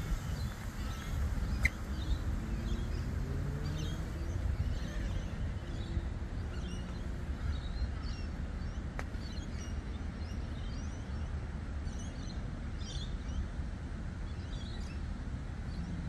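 Small birds chirping now and then, short scattered calls throughout, over a steady low background rumble.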